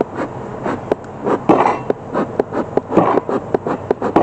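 Bee smoker puffing twice, about one and a half and three seconds in, amid a run of light clicks and knocks from beehive equipment being handled.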